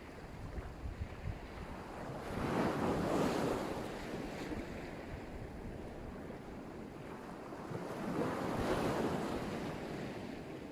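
Black Sea surf: small waves breaking on the shore, two swells of wash a few seconds apart, over a steady hiss of water. Wind buffets the microphone with a low rumble.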